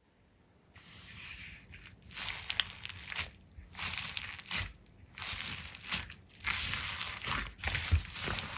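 Slime being squeezed and pressed, making crackling, crunching sounds in a run of bursts with short pauses between them.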